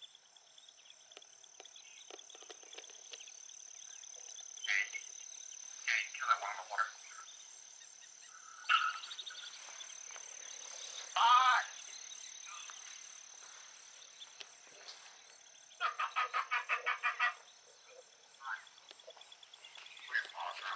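Marsh ambience: a steady high insect drone with scattered croaking animal calls, one wavering call about halfway through, and a quick run of about ten pulsed notes a few seconds before the end.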